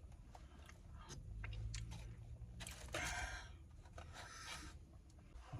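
A person chewing food close to the microphone, with small wet mouth clicks and two short breathy rushes, one about three seconds in and one near the end.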